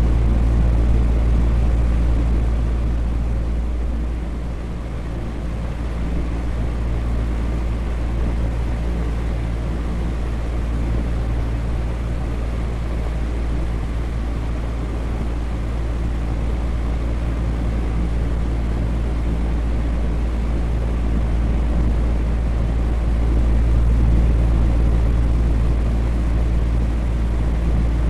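Electric fan running steadily: a continuous rush of moving air with a deep rumble underneath and a steady motor hum, dipping slightly in level about four seconds in.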